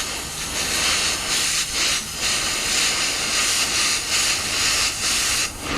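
Cutting torch hissing steadily as it cuts through a metal pipe, with a couple of brief breaks in the hiss.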